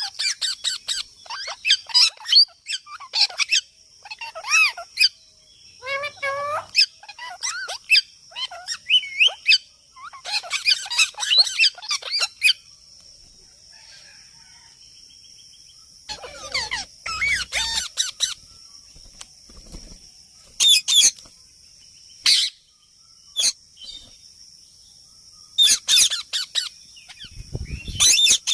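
Australian parrots calling in bursts of rapid, chirping calls, with quieter gaps of a few seconds between bursts. A steady high-pitched drone runs underneath throughout.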